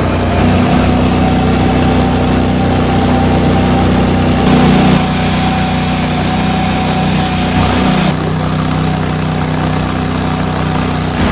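Engine of a flood-rescue vehicle running steadily, its pitch shifting a few times, with a thin whine above it for most of the time.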